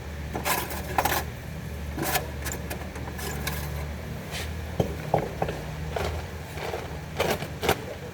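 Scattered sharp clinks and knocks, about a dozen, from work on the car, over a steady low hum.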